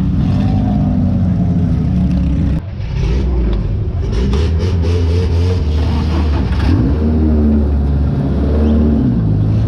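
Off-road buggy engine running under load as the vehicle pulls away, with a brief drop in loudness about two and a half seconds in and the engine note rising twice later on as it speeds up.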